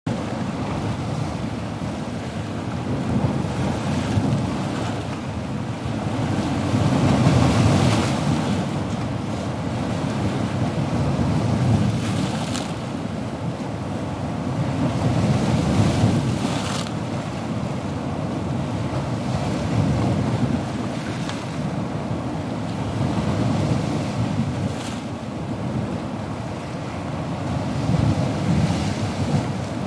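Ocean surf: waves breaking and washing in a continuous rush that swells every few seconds.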